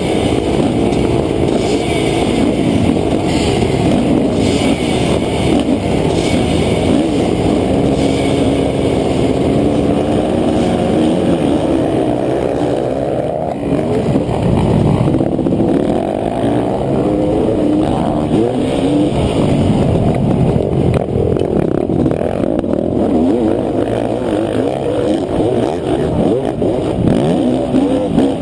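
Motocross dirt bike engines running hard and revving, the pitch climbing and dropping with the throttle.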